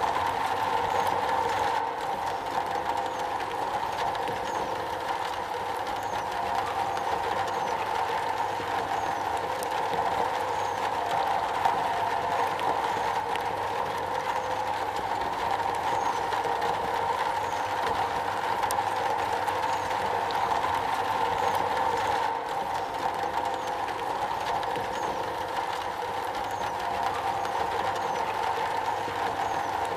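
Steady rain falling on a metal roof: a dense, continuous patter of drops at an even level.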